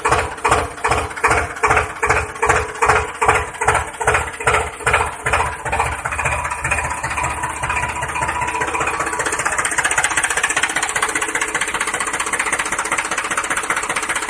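Small motor of a DIY miniature tractor running. For about the first six seconds it pulses roughly three times a second, the pulses quickening, then it settles into a steady buzzing hum.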